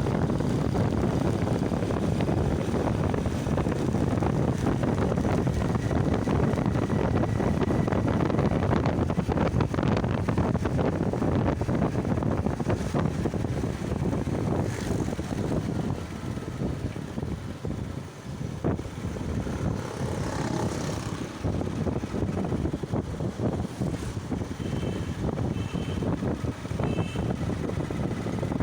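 Wind buffeting the microphone over steady vehicle and road noise while riding a bike, easing briefly just past the middle. Three short high beeps sound near the end.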